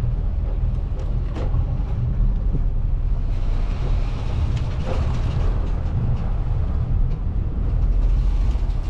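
A boat motoring slowly in to dock, heard as a loud, steady low rumble. A hiss rises over it in the middle.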